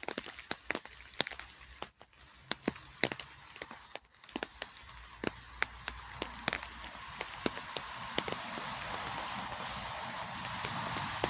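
Rain: large drops tapping close by in irregular sharp ticks, over a steady hiss of falling rain that grows gradually louder through the second half.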